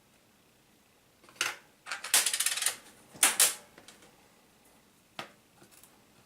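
Hard plastic laptop parts being handled: a short scrape, a longer rattling scrape about two seconds in, another scrape a second later, then a single sharp click.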